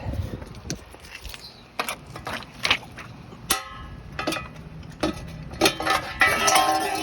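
A series of separate clicks and knocks, about a dozen over several seconds, with a longer rattling stretch near the end, from hard objects being handled.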